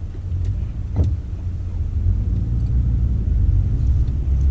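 Low rumble of a 4x4 driving, heard from inside the cab, growing gradually louder as it picks up speed. There is a single small knock about a second in.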